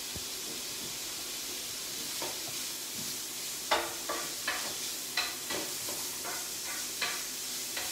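Diced lardons and chopped onion sizzling in olive oil in a flat frying pan, with a steady hiss. From about halfway in, a spatula scrapes and knocks against the pan several times as the pieces are stirred.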